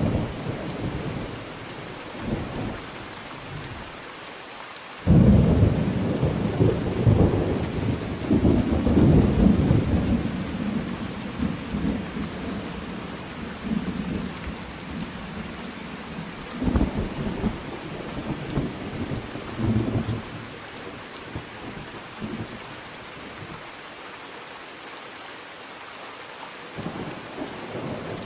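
Steady rain falling with rolling thunder. A sudden loud thunderclap about five seconds in rumbles on for several seconds, followed by a few weaker rumbles, then a quieter stretch of rain alone before the thunder builds again near the end.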